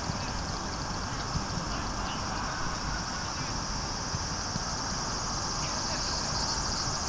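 A steady chorus of insects chirping high and pulsing, getting a little louder near the end, over a low rumble.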